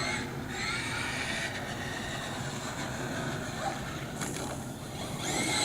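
Electric motor and drivetrain of a radio-controlled truck running, a steady whine.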